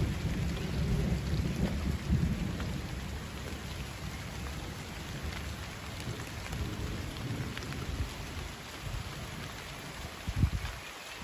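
Steady rain falling, with a low rolling rumble of thunder that fades over the first few seconds. A short low thump comes near the end.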